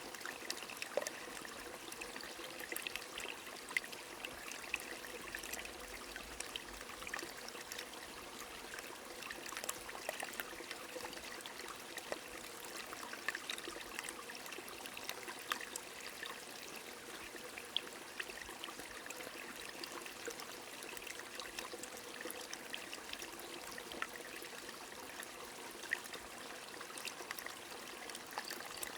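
A small stream trickling and splashing steadily, with light rain falling and scattered drops ticking throughout.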